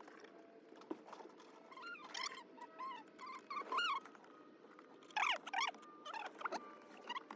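Short high-pitched chirps and squeaks from an animal, several in a row, with the loudest cluster about five seconds in.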